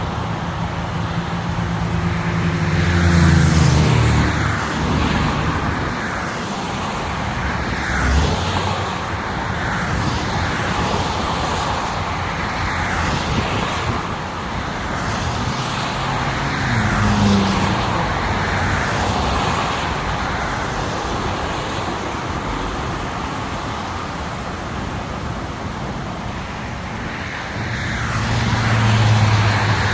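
Highway traffic: a steady stream of vehicles passing one after another, with tyre noise swelling and fading every couple of seconds. A heavy engine note drops in pitch as it passes a few seconds in, and another engine swells near the end.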